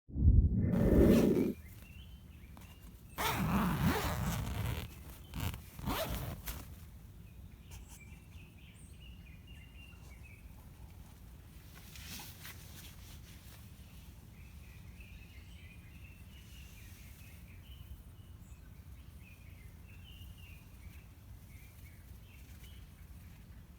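A zipper being pulled in three loud rasping strokes, followed by quiet outdoor background with faint high bird chirps.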